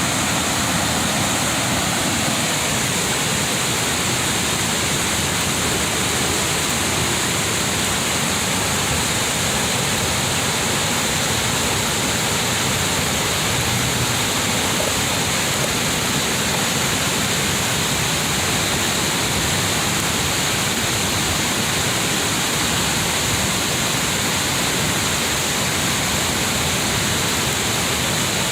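Water falling over a river cascade, a constant, loud, even rush with no breaks.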